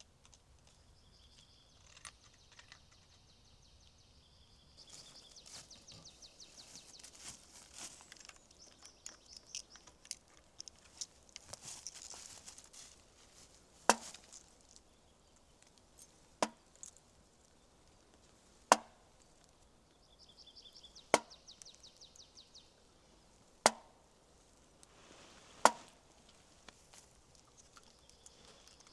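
Wood being chopped: six sharp strikes, about two to two and a half seconds apart, in the second half.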